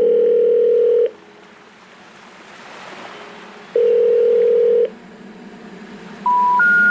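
Telephone ringback tone ringing twice, each ring about a second long, over a soft hiss. Near the end come three short rising tones, the special information tone that signals a call that cannot be completed, such as a number not in service.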